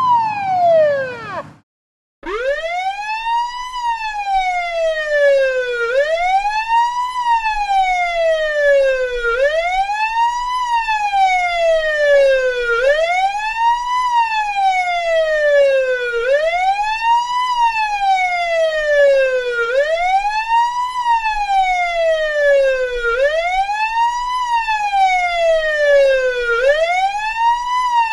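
Police siren on the wail setting. Its tone sweeps slowly up and then down, about once every three and a half seconds. At the very start an earlier siren falls away and cuts off, and after a moment of silence the wail begins.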